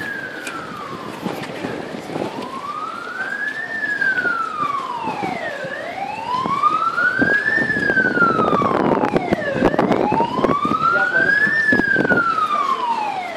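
Vehicle siren in a slow wail, rising and falling about every four seconds and growing louder as it comes closer.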